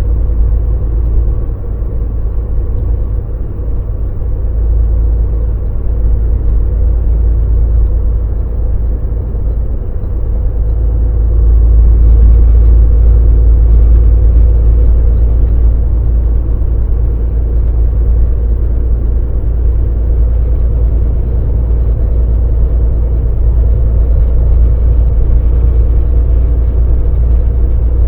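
Volvo VNL semi truck on the move, its diesel engine and road noise giving a steady deep rumble that grows a little louder about twelve seconds in.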